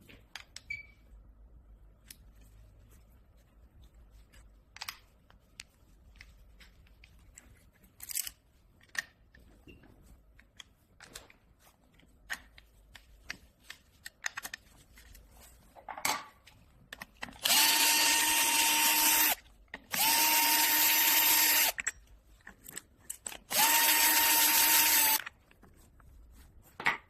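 Electric drill-driver run in three steady bursts of about two seconds each, backing out screws, after a stretch of light clicks and taps from handling tools and parts.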